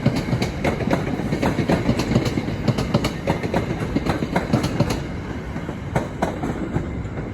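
A train passing at speed: a steady rumble with a rapid run of clacks from the wheels crossing rail joints, easing off a little after about five seconds.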